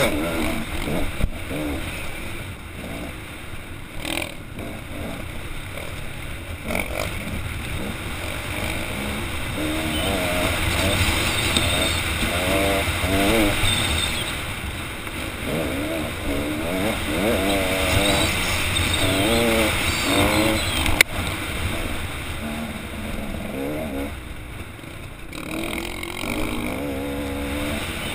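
Dirt-bike engine running under load on a rough trail, its pitch rising and falling as the throttle is opened and closed. A single sharp click about three-quarters of the way through.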